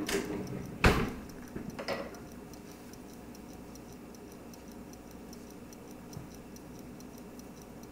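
A sharp knock about a second in and a lighter one just after, like a utensil set down on the counter. Then a faint, quick, even ticking that goes on steadily.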